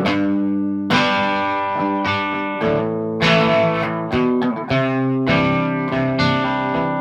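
Gibson Custom SG electric guitar played through an amplifier, chords struck about once a second and left to ring into each other.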